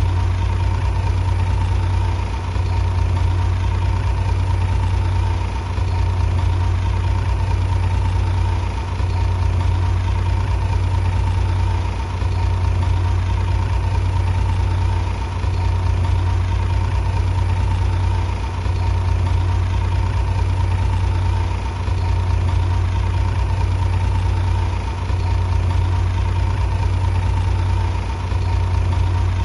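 Heavy diesel engine of a bulldozer running steadily with a deep hum. The level dips briefly about every three seconds.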